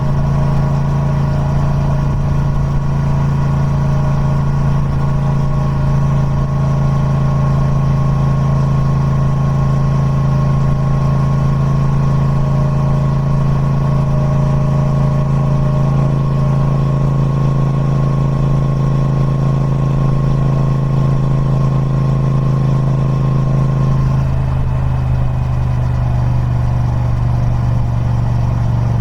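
Triumph Speed Twin 1200's parallel-twin engine running through its stock exhaust at a steady, even pace. About 24 seconds in, the engine note steps down a little and holds there.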